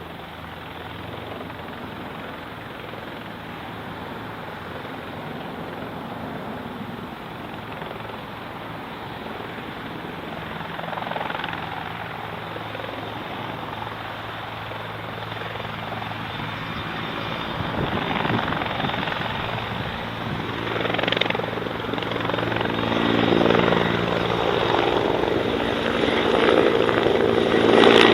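Light aircraft engine drone, steady at first and growing louder, with the engine's pitch lines strongest in the last few seconds as the aircraft comes closer.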